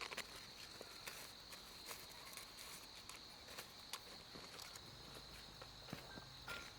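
Insects chirring in a steady, high-pitched drone, with scattered soft clicks and rustles, much like footsteps or handling.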